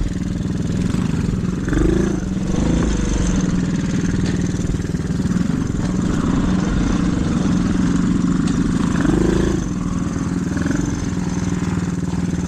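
Mini dirt bike's small single-cylinder engine running steadily as it is ridden along a trail, the revs swelling briefly about two seconds in and again about nine seconds in.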